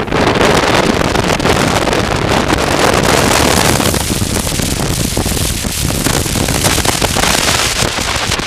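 Heavy wind rush buffeting the microphone of a moving motorcycle, with the engine and road noise underneath, easing slightly about halfway through.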